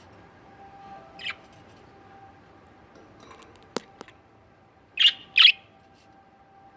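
Pet budgerigars chirping: a short chirp about a second in, then two loud chirps in quick succession about five seconds in, with a couple of sharp clicks just before them.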